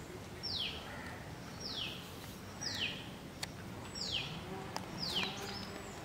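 A bird calling outdoors: a short, high whistled note that slides steeply down in pitch, repeated five times about a second apart.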